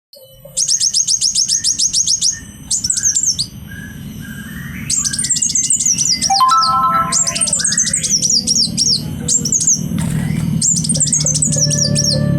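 A caged kowul songbird singing hard in bursts of rapid, high, sharply sliding notes, the first a fast even trill of about ten notes a second and the later ones quick falling phrases, while in moult. A steady low hum runs underneath and grows a little louder near the end.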